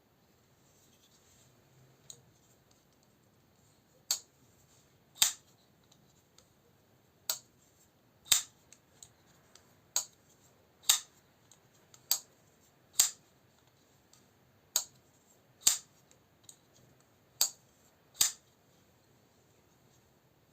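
Petrified Fish PFB01 Terra folding knife being opened and snapped shut over and over, a sharp click at each stroke. The clicks come in pairs about a second apart, six times.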